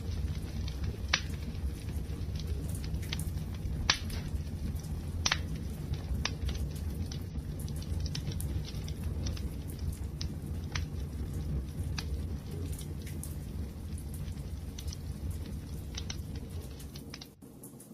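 Wood fire crackling: irregular sharp pops and snaps of burning wood over a steady low rumble of the flames. The sound dips briefly near the end.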